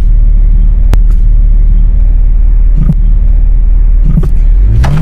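Vehicle engine running with a steady low rumble. There is a sharp click about a second in, and near the end a tone starts rising in pitch.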